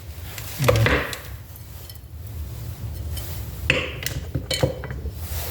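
Metal parts and a hand tool clinking and tapping against a Toyota 4AFE distributor while its bearing is being locked in place. There are a few sharp metallic clinks, one about a second in and a cluster near four seconds in, over a low background hum.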